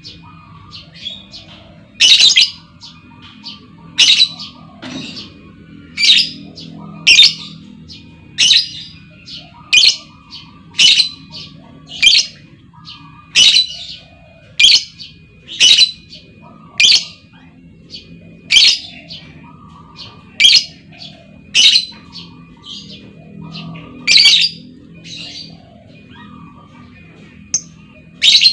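Female lovebird calling: loud, sharp, high calls about once every second, with softer chirps in between, over a low steady hum.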